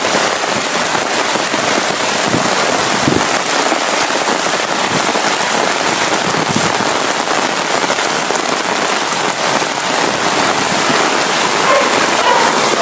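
Heavy rain pouring steadily onto a flooded paved street, a dense, even hiss of drops.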